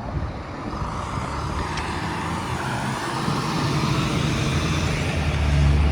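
Road traffic: a motor vehicle's engine and tyres rumble by over a steady street noise, growing louder near the end.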